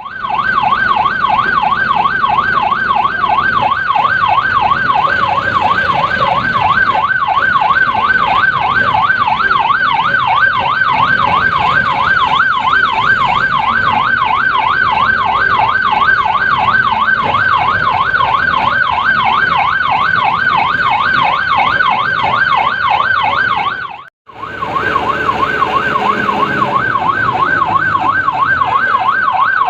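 Electronic siren in a fast yelp, its pitch sweeping up and down about three times a second. It cuts off suddenly about 24 seconds in and starts again half a second later.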